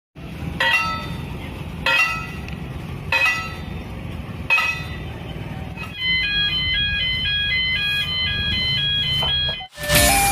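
Railway level-crossing warning alarm: a ringing electronic chime struck about every 1.3 seconds, then, about six seconds in, a fast repeating pattern of high stepped tones, over a low rumble. It cuts off abruptly near the end.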